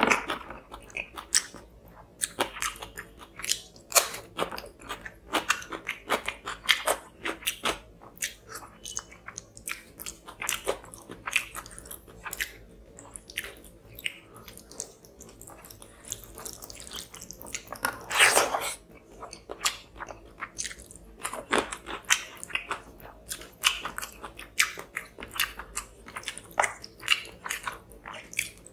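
Close-miked chewing and biting of a person eating tilapia fish curry and rice by hand: an irregular run of short wet mouth smacks and bites, with one louder, longer burst about two-thirds of the way through.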